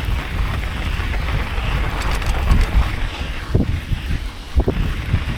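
Wind buffeting a chest-mounted action camera's microphone while cycling: a steady low rumble with a hiss over it.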